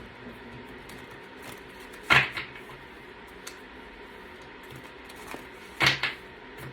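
Two sharp knocks about four seconds apart, with a faint tick between them.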